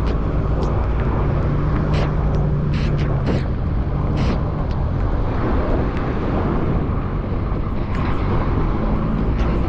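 Steady rush of wind and road noise from riding a bicycle through city traffic on wet streets, with several short hisses along the way.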